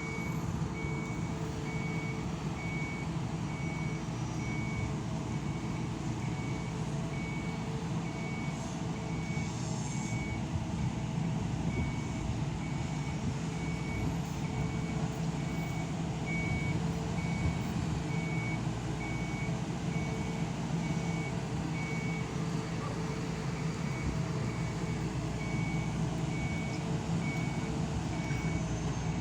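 A machine's backup warning beeper sounding in an even run of short beeps over the steady drone of its engine, as a fishing boat is lowered from the repair yard.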